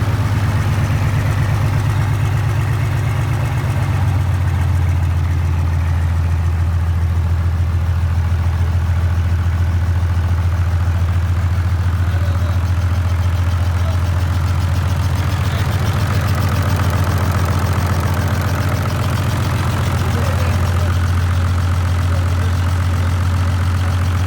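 Mitsubishi Fuso 6D17 24-valve inline-six diesel engine idling steadily.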